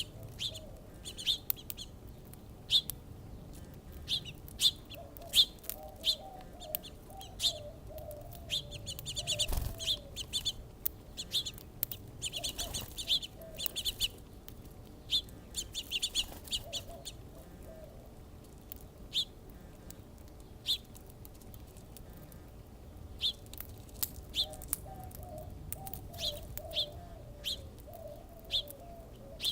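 Small songbirds chirping: short, high chirps repeating irregularly, coming thick and fast in two busier flurries about a third of the way in.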